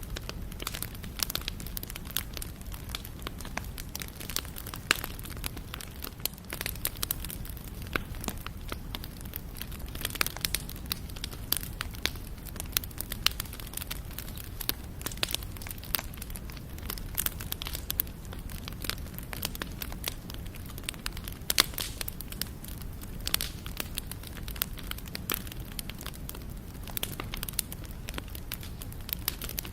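Wood fire crackling and popping steadily, with many sharp irregular pops over a low, even rumble of the burning.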